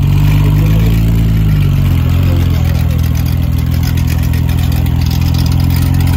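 Porsche 935 race car's twin-turbo flat-six running at low revs as the car moves off slowly, with a brief rise and fall in pitch about a second in.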